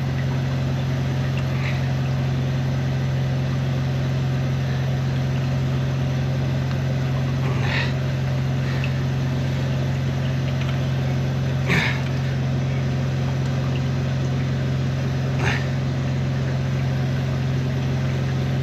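Drain jetting unit's engine and pump running steadily at a constant pitch while the jet hose works through a silted pipe, with a few brief sharp clicks or knocks.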